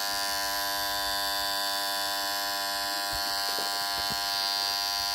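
Energised electrical contactor humming with a steady mains buzz, a sign that dirt has got between its magnet faces.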